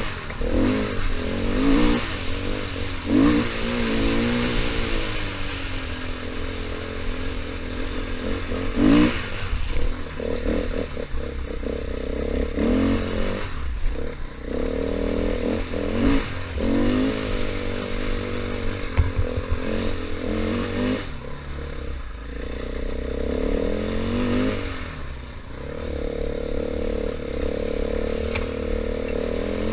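KTM 500 EXC single-cylinder four-stroke dirt bike engine being ridden, its pitch rising and falling every few seconds as the throttle opens and closes, with scattered clattering knocks over a steady rushing hiss.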